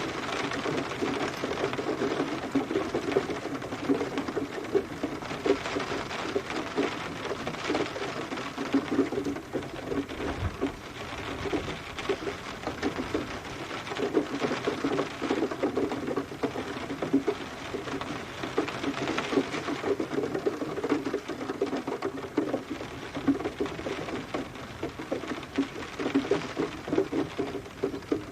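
Rain pattering steadily: dense drops striking a hard surface, growing heavier and lighter by turns.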